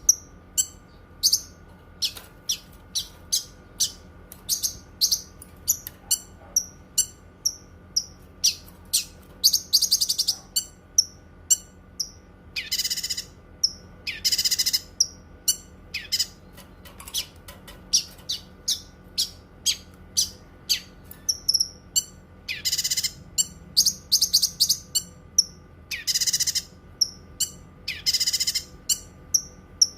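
Cucak kinoi songbird calling, a fast run of short, sharp high chirps broken every few seconds by longer harsh, buzzy notes.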